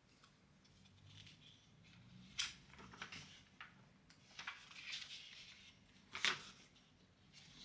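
Scattered light desk-handling noises: a few soft knocks and clicks with brief rustling between them, the sharpest knocks about two and a half and six seconds in.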